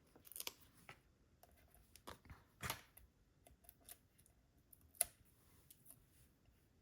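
Faint paper-craft handling: foam adhesive dimensionals peeled from their backing and a cardstock piece pressed into place. It comes as scattered small clicks and rustles, the sharpest about five seconds in.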